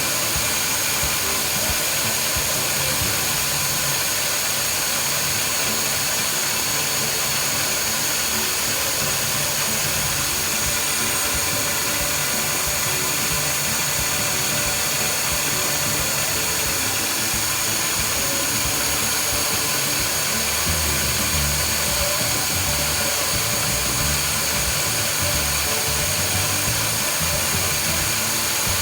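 CNC milling spindle running steadily with a constant high whine over a hiss, typical of a machine cutting.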